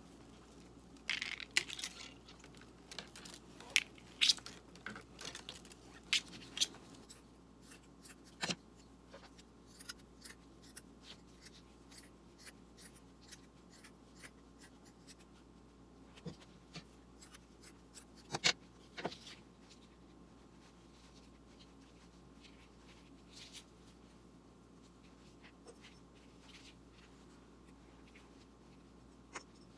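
Scattered small clicks, taps and scrapes of objects being handled, busiest in the first few seconds with a few sharper knocks later, over a faint steady hum.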